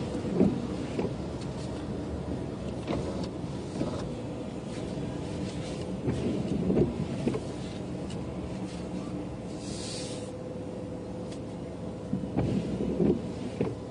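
Steady hum of a car's engine heard from inside the cabin, with a brief hiss about ten seconds in and a few faint soft knocks.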